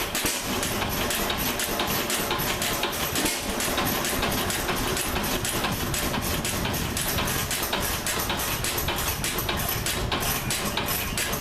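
SAMSCO 5 HP throttle-governed antique stationary engine running steadily, with a rapid, even beat of exhaust strokes.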